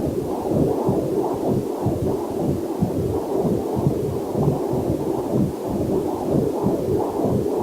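Fetal Doppler heart monitor playing a rapid whooshing heartbeat, an even train of muffled pulses about two to three a second.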